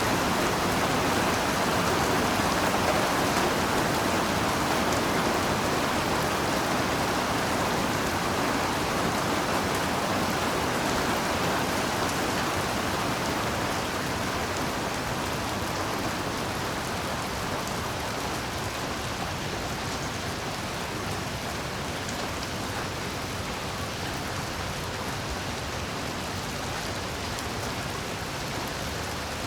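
Heavy rain falling steadily: a dense, even hiss that grows gradually a little quieter.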